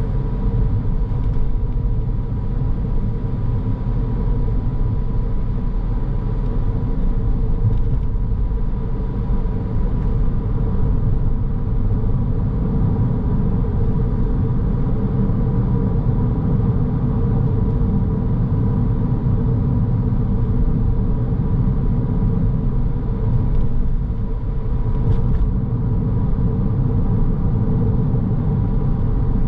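Car driving along: a steady low rumble of engine and road noise, with a thin constant whine above it.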